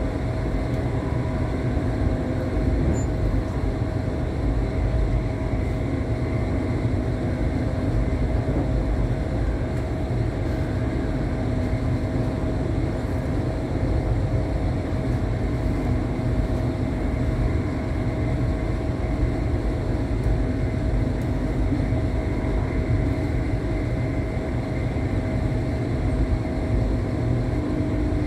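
Steady low rumble of a passenger train carriage running along the track, heard from inside, with a faint steady hum running through it.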